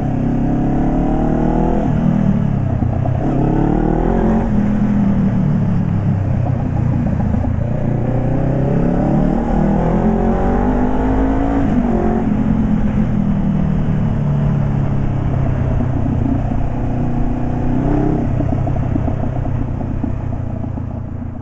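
Honda CBR500R's parallel-twin engine, warm, running through a de-baffled exhaust, its revs climbing and dropping again several times. The sound fades away near the end.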